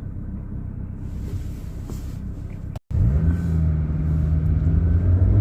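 Car running along the road, heard from inside the cabin: a steady low rumble of engine and tyre noise. The sound cuts out completely for a moment just before three seconds in, then returns louder with a steady engine hum.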